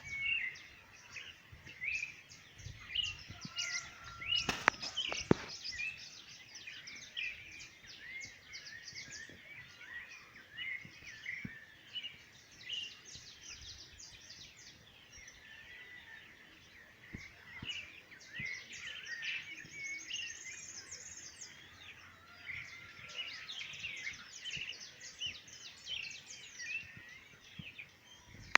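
Many small birds chirping in short, overlapping calls. A sharp knock about four and a half seconds in, and another just after, are the loudest sounds.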